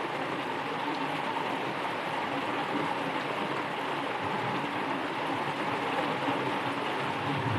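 Steady rain falling, an even hiss with no distinct separate drops.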